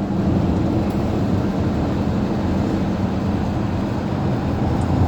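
Heavy tow truck's engine and road noise heard from inside the cab while driving: a steady low hum under a constant rushing noise.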